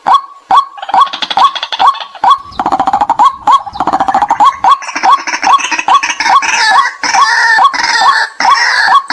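White-breasted waterhen lure call: a steady series of loud, sharp 'kwak' notes about two to three a second. About a second in, a denser, harsher chattering chorus joins them and grows fuller and higher-pitched toward the end.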